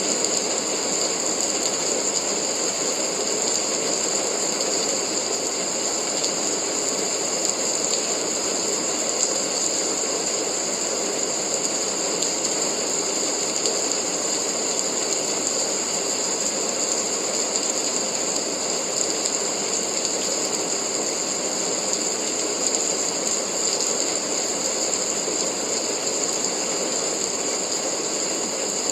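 Steady rain falling, an even hiss that runs on without breaks or changes.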